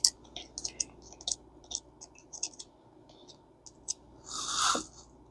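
Old screwdriver scraping and clicking inside a Mitchell 410 fishing reel's gear housing, digging out old grease in short irregular strokes, with one longer, louder scrape about four seconds in.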